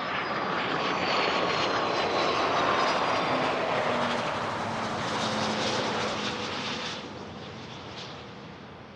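Business jet's turbofan engines passing close by on the runway: a loud rush of jet noise that swells, peaks about three seconds in and fades, with a high whine that slides slowly down in pitch as the jet goes past, dropping off sharply about seven seconds in.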